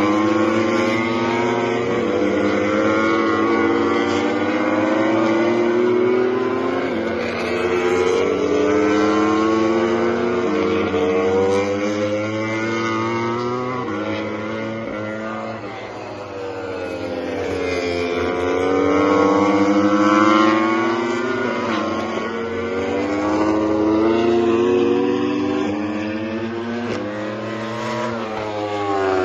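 MotoGP racing motorcycles running at high revs on track, several bikes at once. Their engine notes rise and fall as they accelerate, shift gear and pass; the sound drops back about halfway through and then swells again as more bikes come by.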